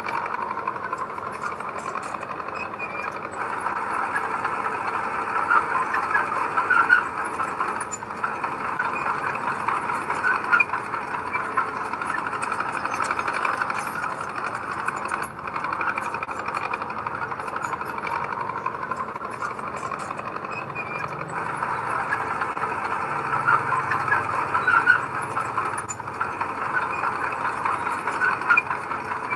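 Bulldozer working: its diesel engine runs steadily under load with the high squeal and clatter of its steel tracks, growing louder twice as the machine drives and pushes.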